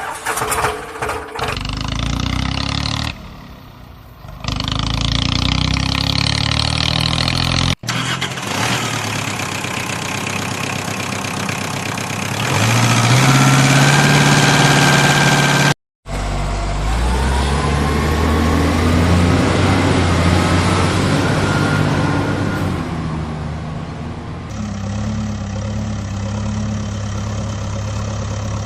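Vehicle engine sound in three pieces, each ending with a sudden cut, about eight and sixteen seconds in. In the middle piece the engine revs up to a higher steady pitch. In the last piece it runs with a whine that rises and then falls.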